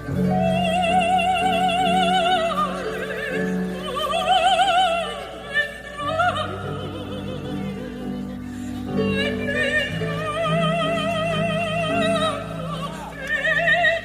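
Operatic voice singing long held notes with wide vibrato over a steady instrumental accompaniment.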